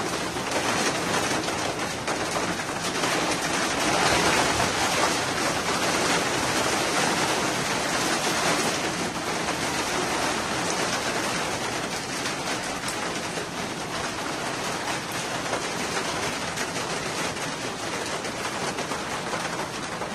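Heavy rain falling steadily as a dense hiss of drops, swelling a little from about three to nine seconds in.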